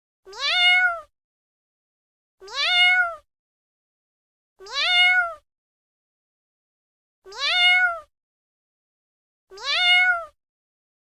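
A cat meowing five times at an even pace, each meow rising in pitch and then holding; all five are the same, like one recorded meow played on a loop.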